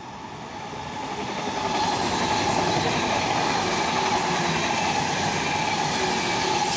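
Frecciarossa high-speed electric train running past along the platform: the sound swells over the first two seconds as it draws near, then holds as a steady rush of wheels on rails with a steady tone running through it.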